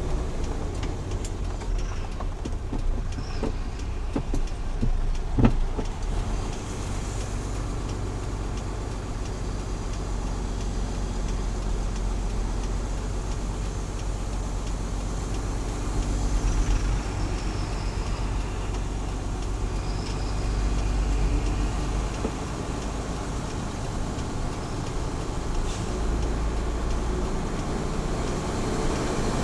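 Small truck's engine and road noise at highway cruising speed, a steady low drone, with a few clicks and one sharp knock about five seconds in.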